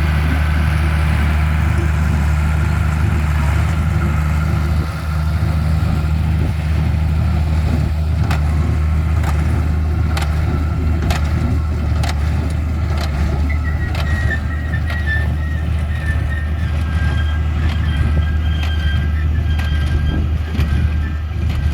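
Tractor engine running steadily at constant speed, with a run of sharp clicks in the middle.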